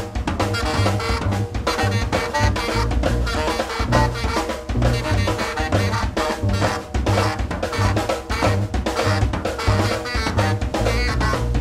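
Free-improvised jazz from a saxophone, drum kit and bass trio. The drums lead with dense, irregular hits and rimshots over low bass notes, with saxophone lines in and out.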